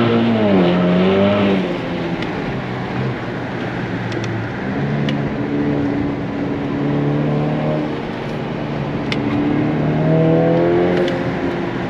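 Honda Accord's turbocharged 2.0-litre four-cylinder, fitted with a Civic Type R turbo and an aftermarket exhaust, heard from inside the cabin under hard track driving. The engine note rises and falls with the throttle: it pulls hard at first, drops to a lower note after about a second and a half, then climbs again near the end before falling back.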